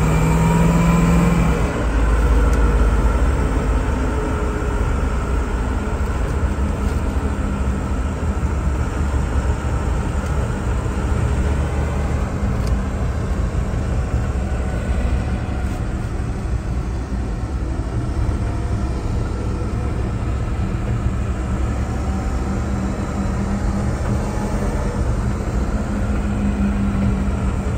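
The 6.2-litre LS3 V8 of a 1986 Range Rover Classic running steadily under way, with road noise. The engine note is a little stronger near the start and again near the end.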